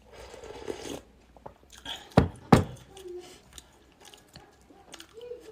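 Close-miked chewing and biting of food, with two loud, deep thuds a third of a second apart about two seconds in.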